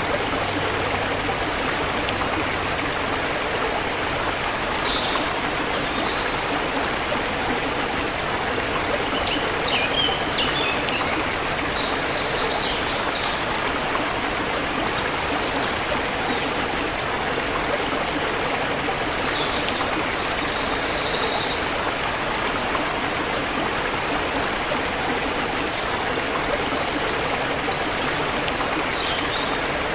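Forest river water flowing steadily, with a few short high bird chirps now and then over it.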